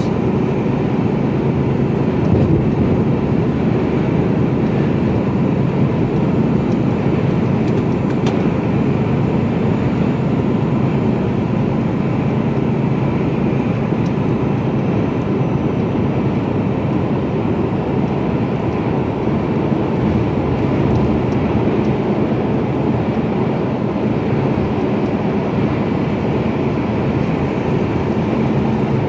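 Steady engine drone and road noise inside the cab of a Mercedes-Benz Actros truck under way, with no change in pitch or level throughout.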